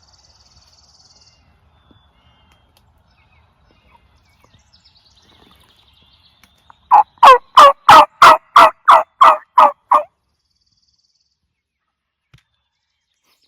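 A loud series of about nine turkey yelps, about three a second, lasting some three seconds and ending abruptly.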